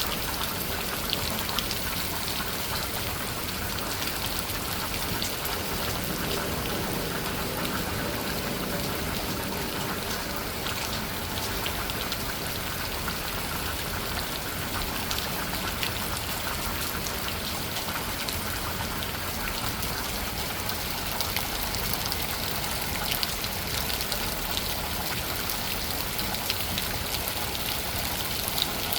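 Steady pouring rain: a constant even hiss with scattered sharp taps of individual drops hitting surfaces.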